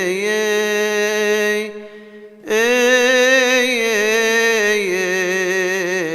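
Solo male chanter singing a Coptic Orthodox hymn, holding long melismatic notes with a wavering pitch. There is a short breath break about two seconds in, and the second long note fades near the end.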